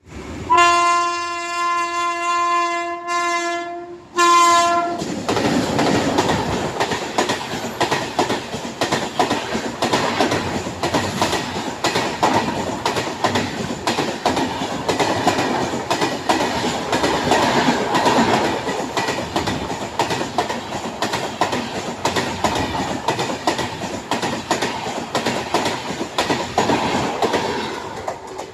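Express passenger train sounding its horn, one long blast and then a short one, as it comes through a station. It then rolls past at speed, wheels clattering rhythmically over the rail joints, and the noise eases off near the end.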